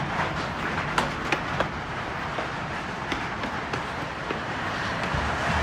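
Hailstones falling and striking the ground and hard surfaces: a steady dense patter with scattered sharper individual hits.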